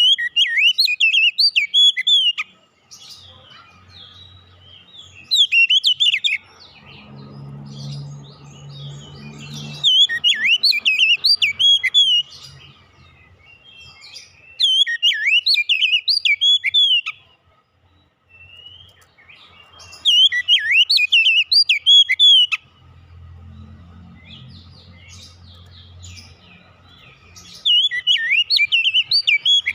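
Oriental magpie-robin (kacer) singing in loud bursts of fast, whistled, gliding phrases, each two to three seconds long, six times at intervals of about five seconds. A faint low rumble sounds in two of the pauses.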